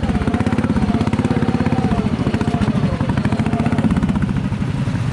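Lawn tractor's small engine running under load with a fast, even beat as it pushes through deep, sloppy mud.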